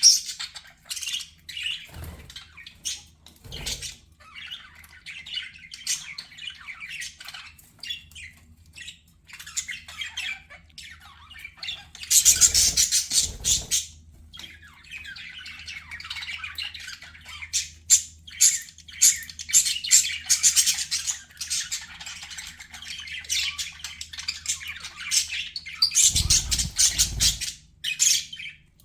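A group of budgerigars chirping and chattering without pause, with louder squawky bursts about twelve seconds in and again near the end.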